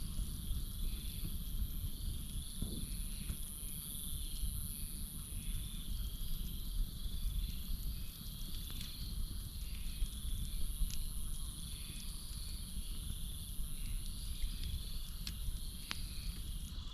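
Campfire burning with a few sharp crackles and pops, over a steady high chorus of crickets and frogs, one part of which pulses in an even rhythm.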